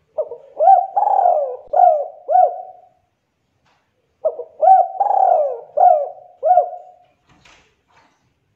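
Spotted dove (tekukur) singing: two matching cooing phrases about four seconds apart, each a run of about five low coos with one drawn-out note in the middle. A faint brief rustle follows near the end.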